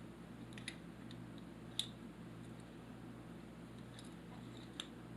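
A few faint metallic clicks as the Stromberg carburetor's choke shaft is worked back and forth in its bore to check for play; it moves smoothly with no shake. A steady low hum runs underneath.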